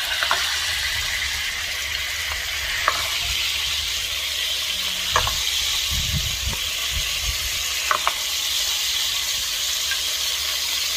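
Chicken pieces sizzling steadily in hot oil in a pot as they are added and stirred with a wooden spatula, with a few light knocks.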